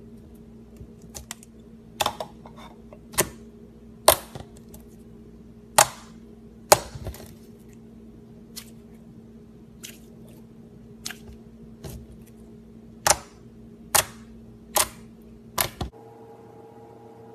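Slime being played with, giving a series of sharp, irregular pops and clicks of trapped air, about a dozen in all, stopping shortly before the end, over a steady low hum.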